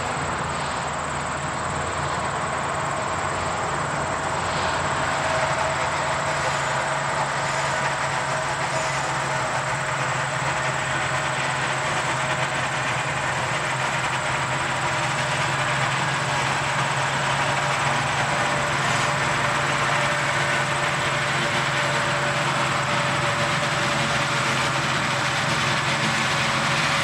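Narrow-gauge train running steadily along the track: a continuous running sound with a steady hum from its diesel locomotive.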